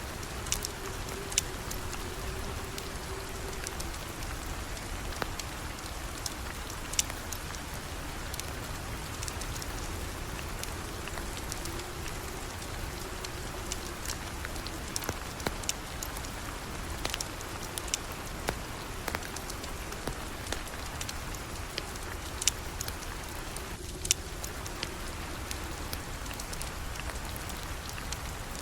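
Steady rain, with scattered sharp pops and clicks throughout.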